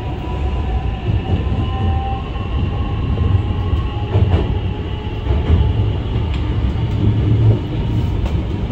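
Hankyu 9000 series electric train running, heard from just behind the driver's cab: a steady low rumble with a faint whine and a few light clicks from the track.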